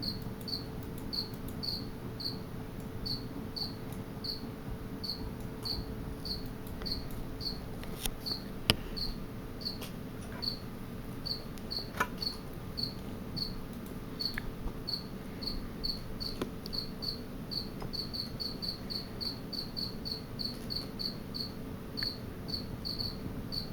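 A cricket chirping in a steady rhythm, about two short high chirps a second, quickening in the last few seconds. A steady low hum and a few faint clicks lie underneath.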